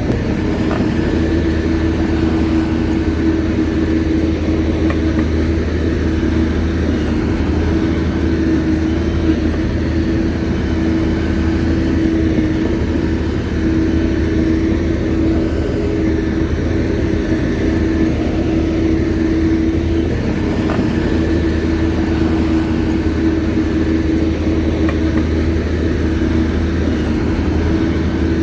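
Shantui bulldozer's diesel engine running steadily under work, a constant engine hum with a low drone beneath it.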